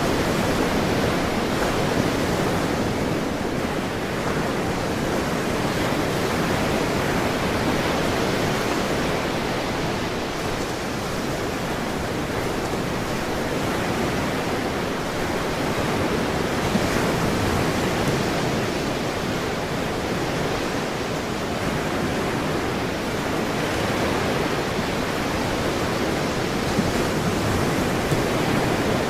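Ocean surf washing continuously, a steady rushing wash that swells and eases slowly over several seconds.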